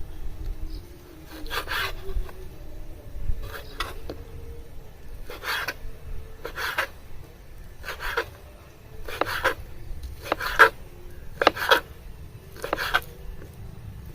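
Repeated short rubbing strokes, about nine of them, roughly one every second or so.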